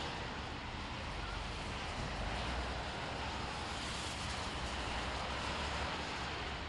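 Steady outdoor background noise: an even hiss with a low rumble beneath, with no distinct events.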